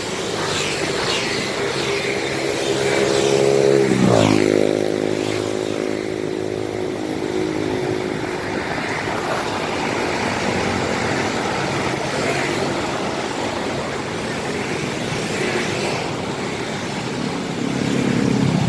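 Buses pulling out of a terminal exit, their engines running, with one passing close by about four seconds in, its engine note dropping in pitch as it goes past and then fading.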